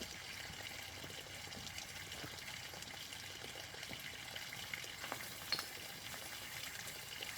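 Steady hiss of running water, with a couple of faint short clicks about five seconds in.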